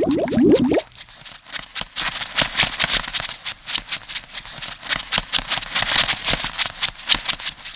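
Crab sound effect: a short bubbling sound that stops about a second in, then a rapid, irregular run of clicks and taps.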